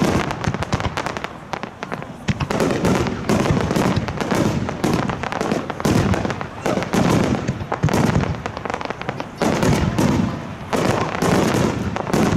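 Aerial fireworks display: shells bursting with deep booms in quick succession, mixed with dense crackling.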